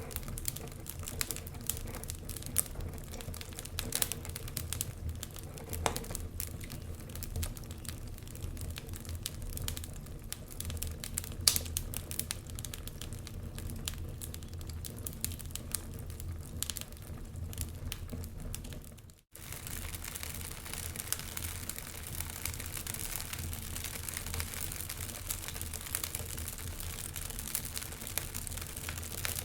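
Wood fire crackling, with irregular sharp pops and snaps over a steady low rumble. About two-thirds of the way through it cuts out for a split second, then carries on with more hiss.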